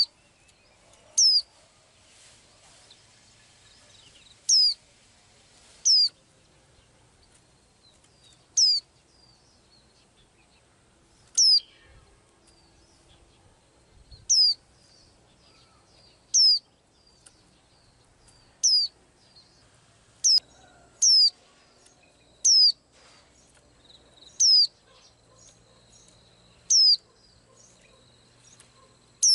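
A small songbird repeating a single high, piercing call, a short note sliding steeply down in pitch, about thirteen times at uneven gaps of one to three seconds.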